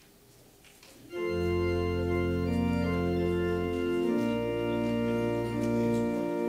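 Quiet room tone, then about a second in an organ comes in playing sustained chords over a deep held bass note that changes pitch a couple of times.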